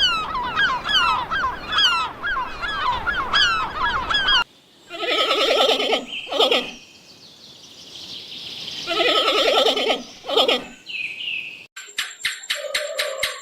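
Domestic poultry calling. First comes a dense run of quick, repeated rising-and-falling calls. After a sudden cut there are two longer, fluttering calls a few seconds apart. Near the end a series of regular clicks sounds with a thin steady tone.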